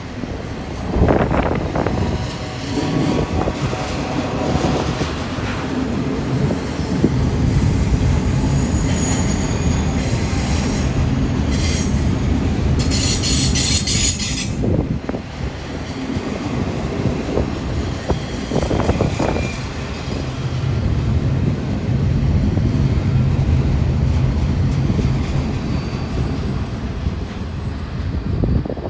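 Freight train rolling past: a steady rumble of wheels and cars on the rails, with a burst of high wheel squeal about halfway through.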